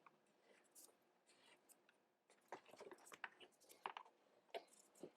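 Faint scratchy rubbing strokes of a wet cloth wiping glue squeeze-out from around a freshly glued acoustic guitar bridge, in short irregular passes that come thicker in the second half.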